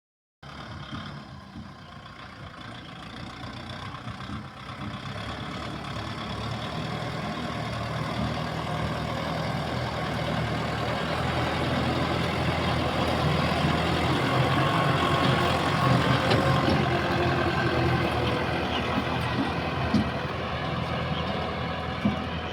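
Kubota 4×4 tractor's diesel engine running, growing steadily louder over the first dozen seconds and then holding steady.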